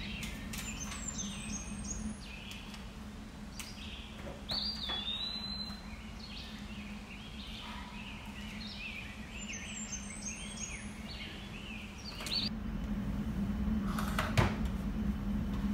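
Birds chirping and singing, many short calls, over a steady low hum. About twelve seconds in the hum grows louder, and a sharp click comes near the end.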